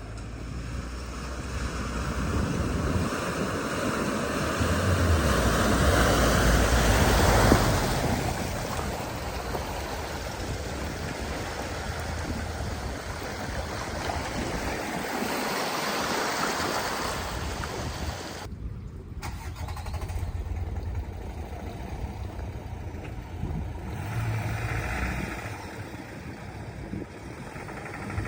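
Car engine and road noise growing louder to a peak about seven seconds in, then easing off and running on more steadily.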